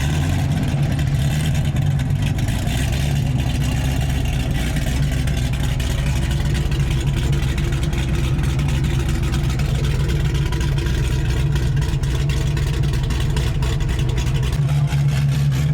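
Several high-performance car engines idling together in a steady low rumble, with no clear revs.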